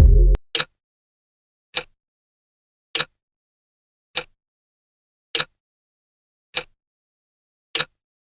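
Electronic music cuts off just under half a second in, followed by a sharp click-like tick repeating evenly about every 1.2 seconds, seven ticks in all: a quiz countdown timer ticking.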